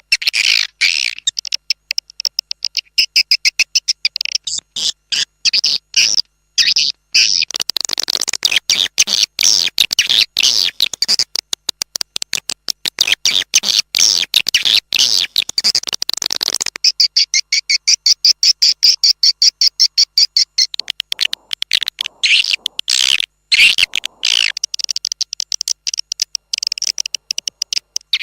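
Swiftlet calls on a swiftlet-farming external lure track: rapid, continuous trains of high chirps and twitters, busier and noisier through the middle. An 'external' call like this is played outside a bird house to attract swiftlets.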